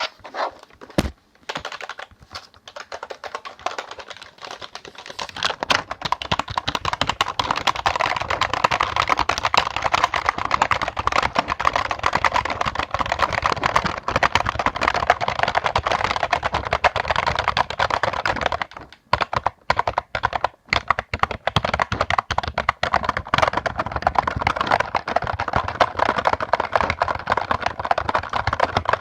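Typing on a computer keyboard: rapid, dense keystrokes, slower and scattered over the first few seconds, then fast and continuous, with a short pause of a few scattered keys about two-thirds of the way through before fast typing resumes.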